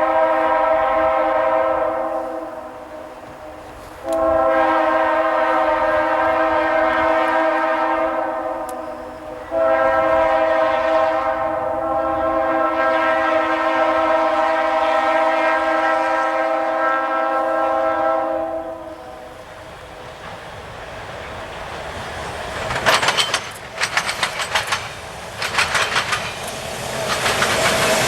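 Diesel locomotive air horn sounding three long chords, the last held about nine seconds, then the train passing with its wheels clicking over rail joints.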